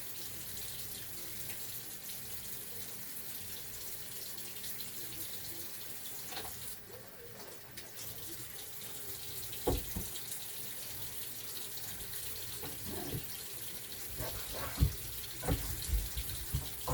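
Kitchen faucet running into a sink, the flow dropping away briefly about seven seconds in. From about ten seconds on, a series of irregular knocks and thumps from handling things in the sink, the loudest about ten and fifteen seconds in.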